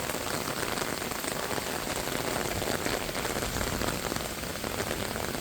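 Heavy rain falling steadily: an even hiss of drops that holds level throughout.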